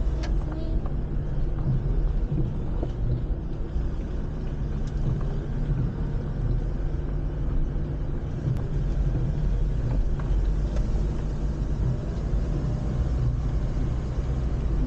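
Steady low rumble of a car on the move, heard from inside the cabin: engine and tyre noise with no change in pace.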